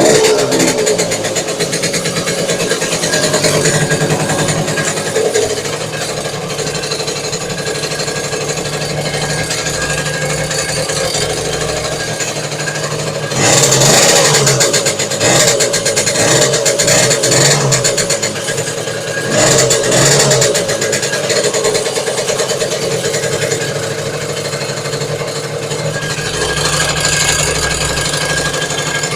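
Delta 50 cc moped engine running with a fast, even metallic knocking, blipped louder several times around the middle. The knock is an unidentified engine fault the owner is asking about.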